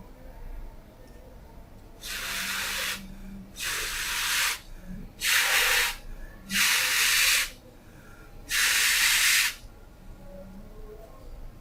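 Five short hissing bursts from a pressurised nozzle, each about a second long, the first two softer than the last three.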